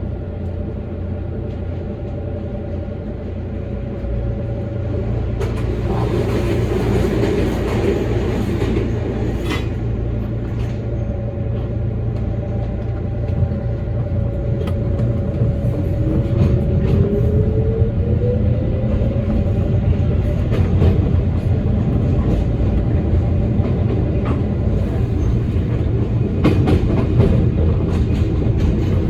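Toyama Chiho Railway electric train running along the track, with a steady rumble and scattered clicks of the wheels over rail joints. A whine rises in pitch about halfway through, and the running grows slightly louder.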